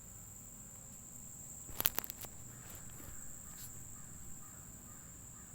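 Crickets trilling in a steady, high-pitched drone, with a quick cluster of sharp clicks about two seconds in.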